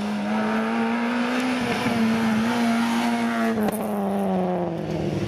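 Citroën Saxo N2 rally car's four-cylinder engine running hard at high revs, its pitch dipping briefly once and then falling steadily near the end.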